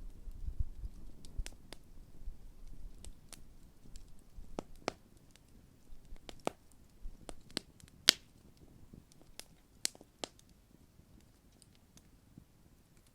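Large wood campfire crackling: scattered sharp pops and snaps at irregular intervals, the loudest about eight seconds in, with a faint low rumble in the first few seconds.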